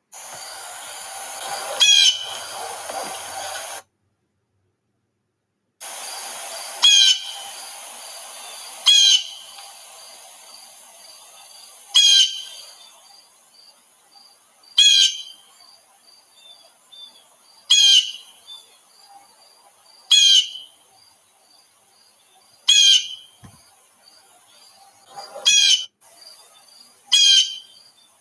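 A bird calling: a short, loud, harsh call repeated about every two to three seconds, with faint rapid chirping behind it. The sound cuts out completely for about two seconds near the start.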